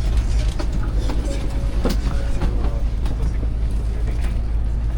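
Steady low rumble inside a Shinkansen N700S carriage, with scattered light clicks and knocks.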